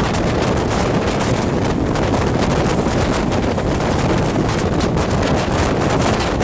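Wind rushing and buffeting against a microphone held out of a moving passenger train's window, over the steady rumble of the train running at speed.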